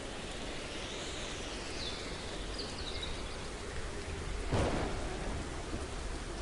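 Steady rain with a sudden crack of thunder about four and a half seconds in. A few short high bird chirps come in the first half.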